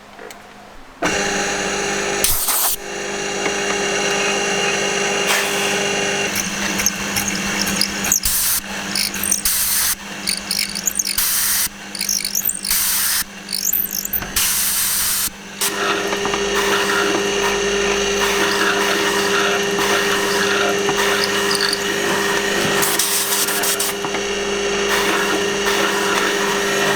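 Electric power tool running with a steady motor hum, starting about a second in, with harsh noise that breaks into short on-and-off stretches through the middle and then runs steadily again.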